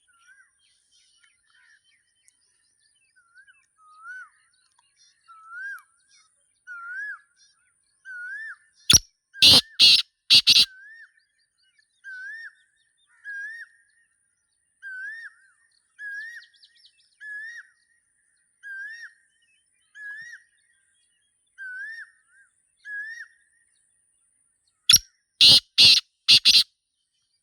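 Black francolin calling twice, each call a loud, harsh phrase of four notes. Beneath it, another bird repeats a soft, short rising whistle about once every second or so.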